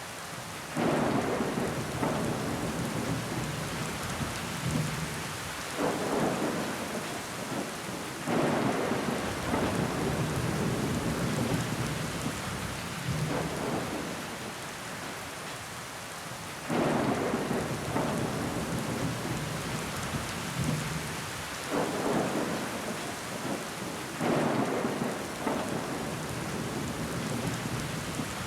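Steady rain falling on window glass, with water running down the pane. Louder surges set in suddenly about a second in and several more times, each dying away over a few seconds.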